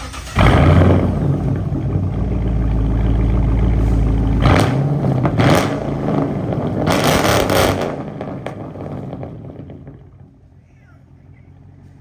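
Pontiac G8 GT's 6.0-litre V8 starting through a straight-pipe exhaust with no mid muffler or resonator: it catches suddenly and loudly about half a second in and idles loud. It is revved three times and then quietens near the end.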